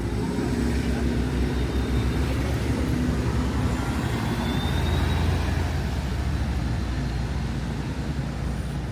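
Steady street traffic: the low rumble of cars and buses passing on a busy city avenue.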